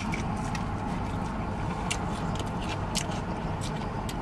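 Biting and chewing crispy fried chicken, with scattered sharp crunchy clicks and wet mouth sounds over a steady low hum.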